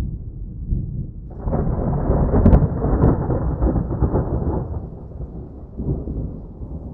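Rolling thunder: a deep rumble that swells about a second in into a louder roll with two sharp cracks, then dies back to a low rumble.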